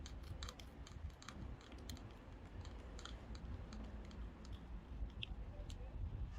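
Faint, irregular small clicks and crackles over a low background rumble.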